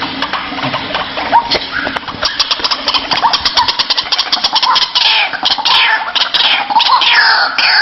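White-breasted waterhens (ruak-ruak) calling in a harsh, rapid croaking chorus, with about four seconds of fast clicking that gives way to repeated falling 'kruak' notes from about five seconds in.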